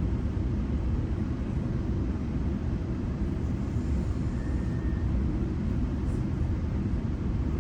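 Steady low rumble of a GO Transit commuter train running along the track, heard from inside the passenger coach.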